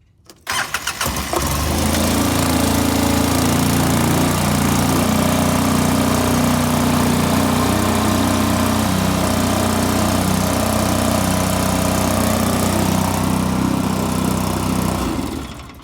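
A 2005 Polaris Ranger XP 700's twin-cylinder EFI engine cranks on the starter and catches within about a second. It then runs at a steady high idle and is shut off near the end.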